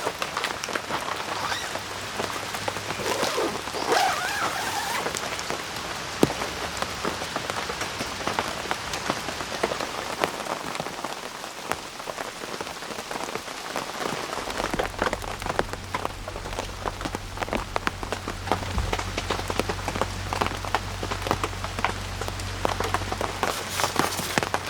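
Rain falling and pattering on a surface, a dense patter of small drop ticks. A low steady hum joins about halfway through and stops shortly before the end.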